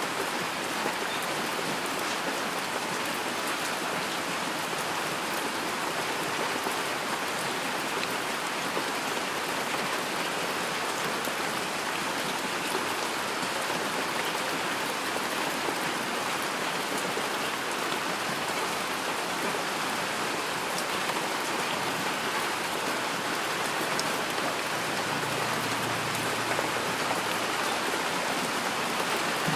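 Steady heavy rain: a dense, even hiss of rainfall with individual drops ticking through it.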